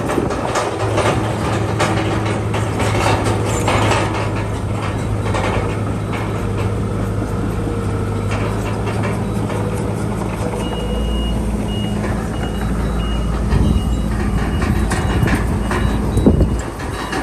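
Heavy diesel earthmoving machinery running steadily with clanks, and a reversing alarm beeping at an even pace from about ten seconds in until near the end.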